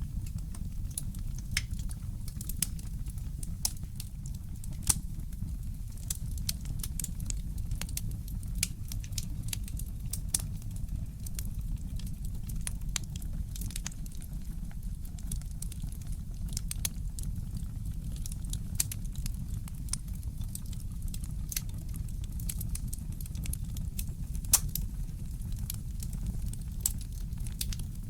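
Fireplace crackling: many small snaps and pops over a steady low rumble, with a louder pop about five seconds in and the loudest one a few seconds before the end.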